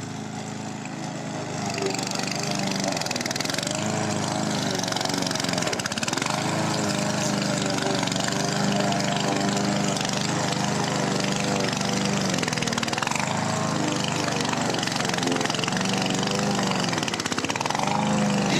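Small petrol grass-cutting machine's engine running while mowing grass, its pitch wavering up and down as the load changes, and getting louder about one and a half seconds in.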